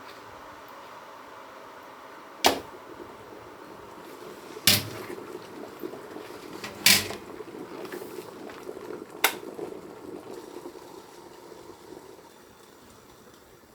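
Four sharp knocks, about two seconds apart, of household items being handled or set down, over a steady background noise.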